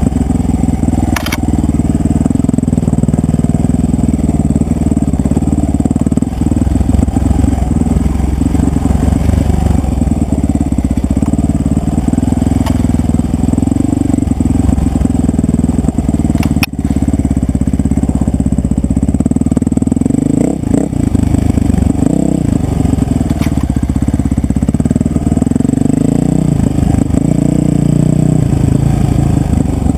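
Enduro dirt bike engine running continuously as the bike is ridden along a rough trail, its pitch rising and falling as the throttle is worked. A few sharp knocks cut through it, about a second in, around the middle and later on.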